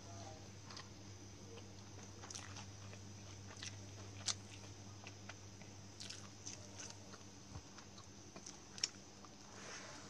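Faint chewing and mouth sounds of someone eating a fresh rice-paper roll, with scattered small clicks and two sharper ticks, one about four seconds in and one near nine seconds, over a steady low hum.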